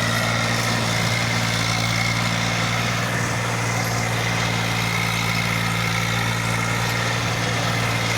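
Eicher 380 tractor's diesel engine running steadily at an even speed, a constant low hum with no revving.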